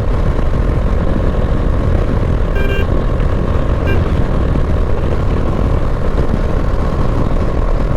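Wind buffeting the microphone of a Bajaj Dominar 400 being ridden at speed, a steady heavy rumble with the bike's engine running underneath, which the rider says has taken on a bad sound. A short beep sounds about two and a half seconds in.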